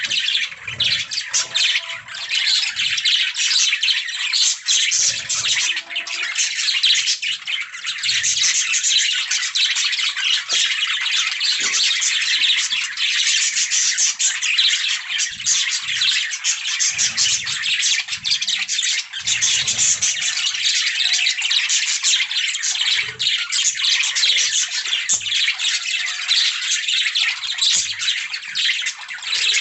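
A flock of budgerigars chirping, warbling and chattering without pause, dense and overlapping.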